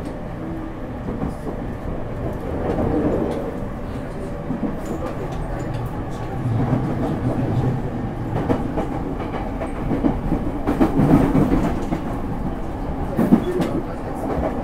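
Interior running noise of a JR East E231 series 1000 commuter EMU: a steady rumble of wheels on rail, with scattered sharp clicks over rail joints and points, loudest about ten to eleven seconds in. A weak air conditioner runs underneath.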